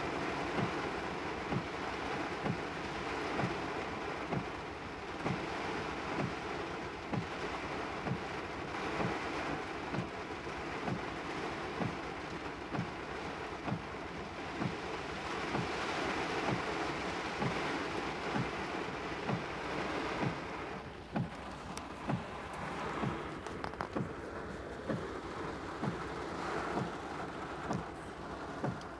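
Heavy rain drumming on a car's roof and windshield, heard from inside the car. A low, regular thump repeats a little under twice a second beneath it, and the rain eases slightly about two-thirds of the way through.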